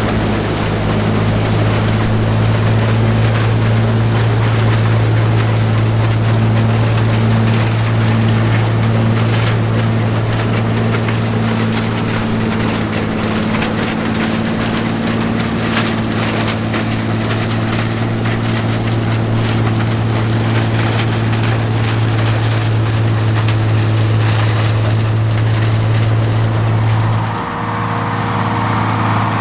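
John Deere 105 combine running steadily while harvesting corn: a loud, even engine hum with the whir of its threshing machinery. Near the end the sound dips briefly and then carries on slightly changed.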